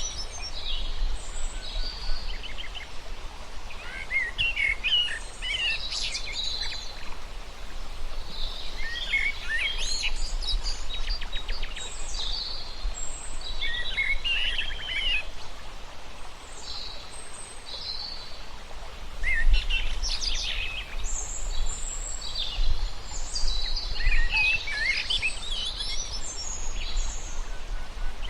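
Songbirds singing in short bursts of quick chirps and trills every few seconds, over a steady low rumble.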